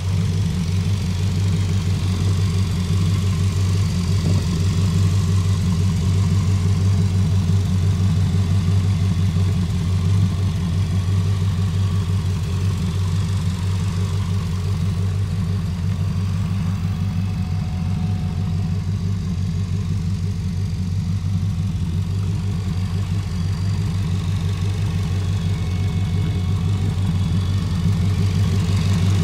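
1932 Ford Roadster's engine idling steadily, a little louder near the end.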